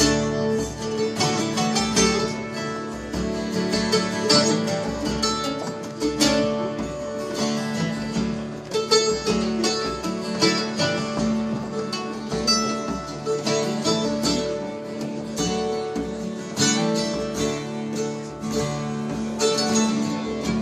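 Acoustic band playing an instrumental introduction to a sea shanty: a strummed acoustic guitar in a steady rhythm over sustained held notes.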